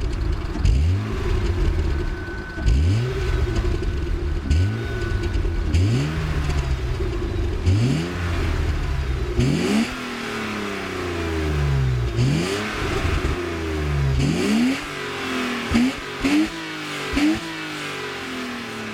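BMW E36 320i's 2.0-litre straight-six revved repeatedly in short blips, each rising quickly and dropping back to idle, through the stock exhaust with the air filter box opened. The blips come quicker and closer together near the end.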